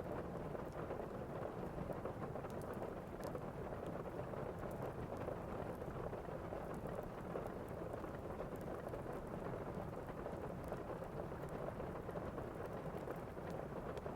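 Thunderstorm ambience: steady rain with a low rumble underneath and faint scattered ticks.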